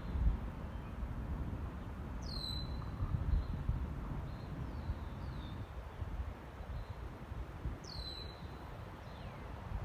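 Low, gusty rumble of wind on the microphone ahead of a thunderstorm, with a bird calling over it: two sharp, high whistles sliding downward, about two seconds in and again near the end, and a few fainter short chirps between.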